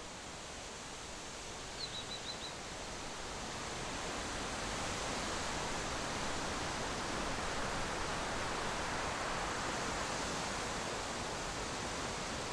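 A steady rushing noise that grows louder over the first few seconds, with a bird chirping four or five times in quick succession about two seconds in.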